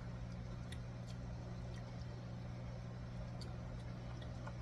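Quiet kitchen background: a steady low hum with a few faint, scattered ticks.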